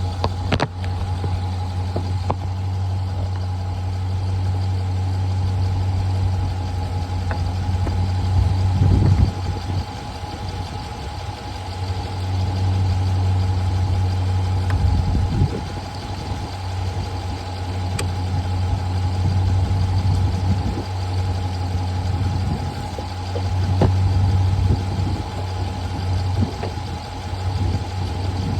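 A car engine idling steadily, with a few brief knocks or handling noises over it.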